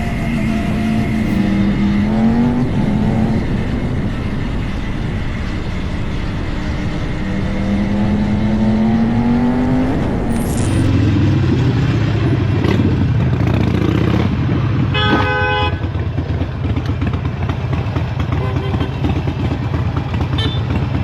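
A vehicle engine accelerating, its pitch climbing through the gears and dropping back at each shift. About halfway through this gives way to a steady low engine hum. A car horn honks once for about a second, some five seconds later.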